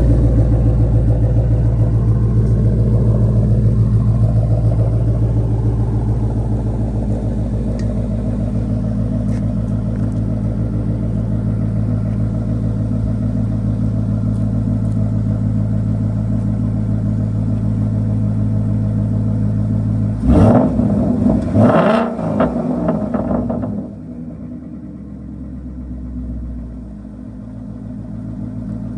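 2018 Ford Mustang GT's 5.0 Coyote V8, running through an X-pipe and MBRP muffler delete, idling steadily soon after a cold start, the idle easing down slightly. About twenty seconds in, a few quick throttle revs, then it settles back to a quieter idle.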